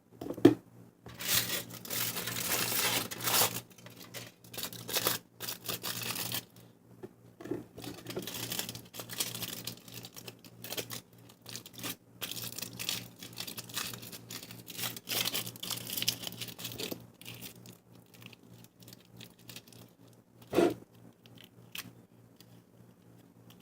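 Aluminium foil crinkling and tearing by hand as it is ripped and squeezed around a fidget spinner, in irregular rustling bursts that thin out after about 17 seconds.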